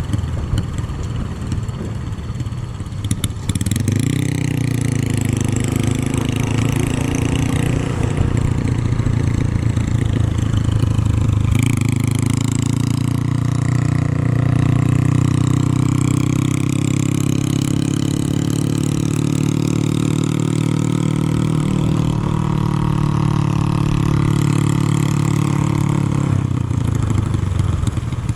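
Motorcycle engine under way, heard from the rider's position. It picks up about three and a half seconds in, holds a steady pitch with a step change near the middle, and drops back shortly before the end.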